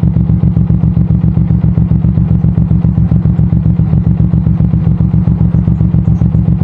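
Suzuki M109R's big V-twin engine running steadily, heard close from the handlebars, with an even pulsing exhaust beat that holds the same pace throughout.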